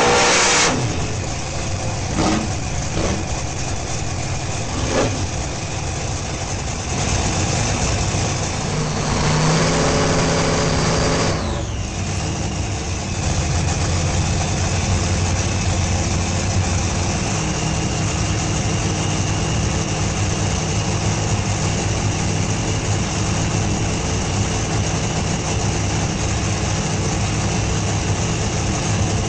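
Hemi drag-race car engine idling, heard from inside the cockpit. A loud rushing hiss cuts off in the first second, and the engine note shifts briefly about a third of the way through before settling into a steady idle.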